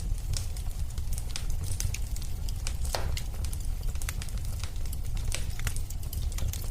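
Wood fire burning in a fireplace: a steady low rumble with irregular crackles and snaps, one louder pop about three seconds in.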